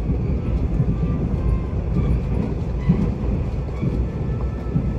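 Mugunghwa-ho passenger train heard from inside the carriage while running: a steady low rumble of wheels on rail, with a heavier thud about once a second.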